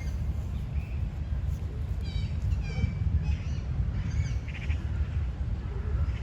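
Wind buffeting the microphone as a steady low rumble, with birds calling; a handful of short calls come between about two and five seconds in.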